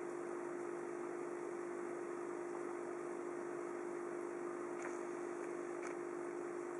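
Aquarium pump running with a steady, even hum and hiss, with two faint ticks about five and six seconds in.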